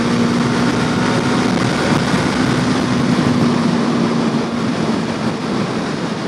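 Yamaha R3 parallel-twin sport bike cruising at highway speed: a steady engine drone under heavy wind rush, the engine note dropping away about three-quarters of the way in.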